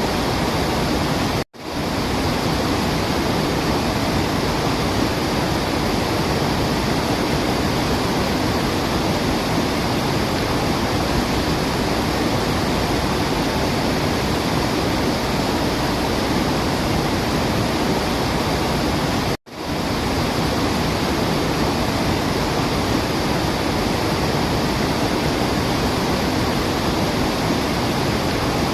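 Steady, loud rush of falling water, like a waterfall, that cuts out for an instant twice, about a second and a half in and again about halfway through.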